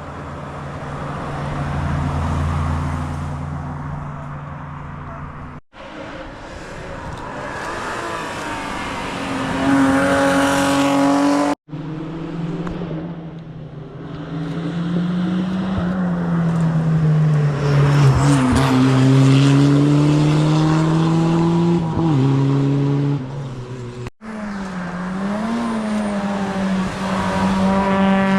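Rally cars at full attack on a tarmac hillclimb, heard in four separate passes. Each engine revs hard and climbs in pitch, with short dips where the driver shifts gear or lifts for a corner.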